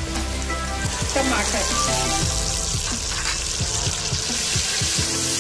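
Sliced onions and ginger-garlic sizzling in hot oil in a pressure cooker pot, stirred with a silicone spatula, as puréed tomatoes go into the oil.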